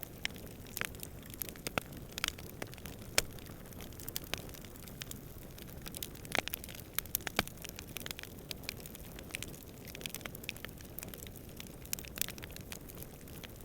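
Wood campfire crackling and popping in irregular sharp snaps, with a few louder pops, over a steady low rush of distant wind.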